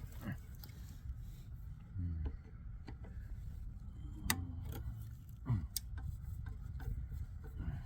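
Scattered sharp clicks and light clinks of hand tools and metal parts being handled while working a screw on a large circuit breaker, the loudest about four and a half seconds in, over a low steady rumble.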